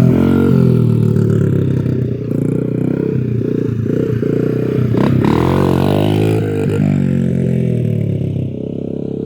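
Dirt bike engine running, its pitch rising and falling with the throttle, with a brief knock about five seconds in.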